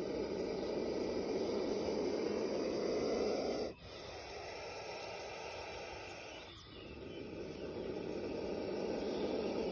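Snake hissing in long, steady hisses, each a few seconds long, broken twice by brief pauses.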